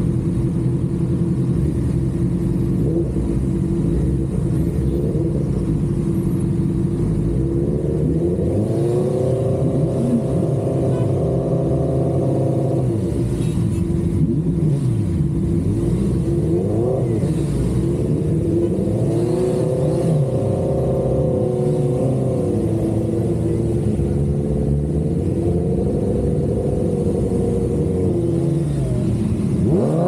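High-performance vehicle engines revving, the pitch climbing and falling again and again over a steady low idle rumble, with several engines overlapping at times.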